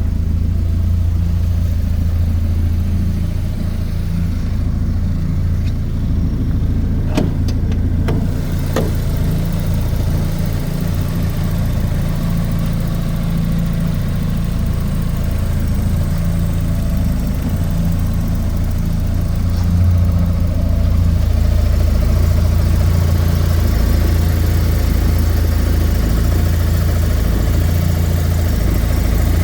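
1988 Porsche 944's 2.5-litre fuel-injected four-cylinder engine running steadily, with a few light clicks about seven to nine seconds in and getting a little louder about twenty seconds in.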